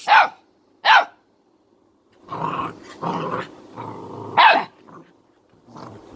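A puppy barking in play: two short sharp barks, then a rough growl lasting a couple of seconds with one more bark near its end.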